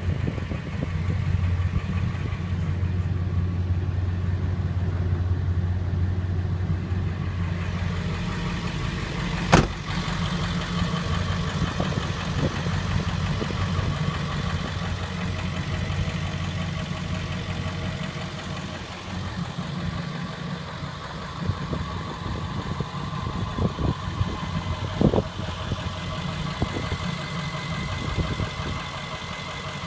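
Ford 7.3 Powerstroke V8 turbo diesel idling steadily, with one sharp click about a third of the way in and a few lighter clicks later.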